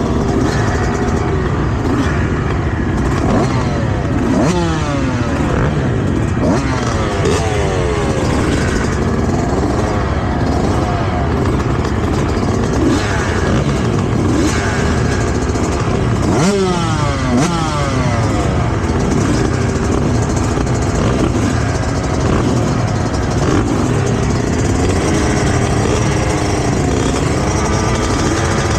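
Motocross dirt bike engines racing, revving up and dropping off again and again through gear changes and throttle chops.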